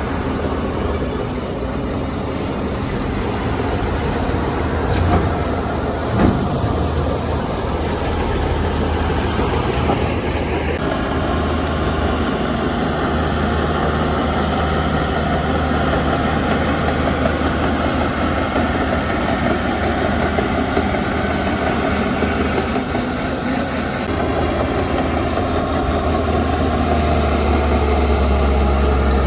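Heavy diesel earthmoving machinery running steadily with a deep engine hum, with a brief clank about six seconds in.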